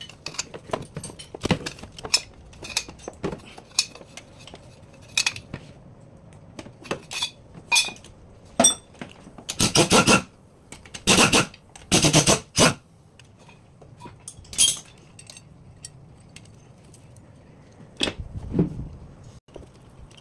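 Metal hand tools clinking and knocking against metal car parts in many separate strikes, with a few louder, longer rattles about ten to thirteen seconds in.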